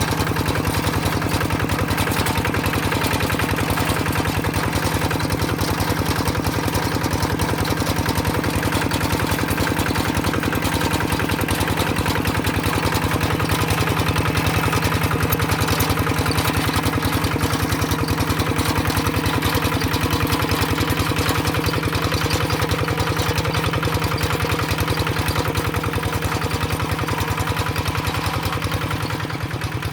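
Tractor engine running steadily at a constant speed, with a rapid, even firing beat; near the end it quietens a little and its note changes.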